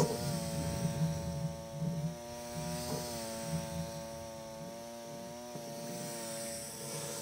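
Lawn tractor running with a steady whine, over a low pulsing engine rumble that eases off about halfway through.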